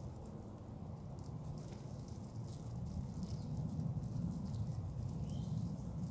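Birds feeding: scattered small pecking taps and a brief chirp about five seconds in, over a steady low rumble.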